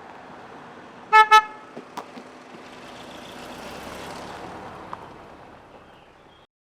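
A vehicle horn gives two short toots in quick succession, followed by the rising and fading noise of a vehicle driving past. The sound cuts off abruptly near the end.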